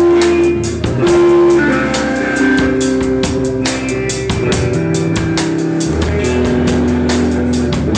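Rock band playing live: an instrumental passage of guitars over a steady drum beat with cymbal hits.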